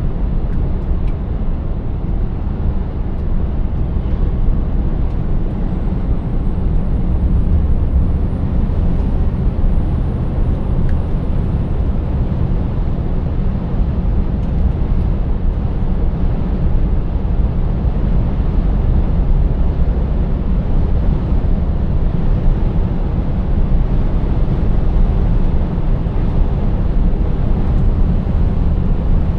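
Scania 590S truck's 16-litre V8 diesel running steadily under way, a continuous low rumble of engine and road noise.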